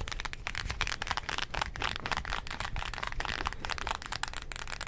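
Buttons on a TV remote control being pressed in rapid, close-up clicks, many to the second.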